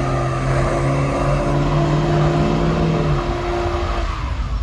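Car engine held at steady high revs while its tyres spin in a burnout, a constant drone over tyre noise. The engine note drops away about three to four seconds in.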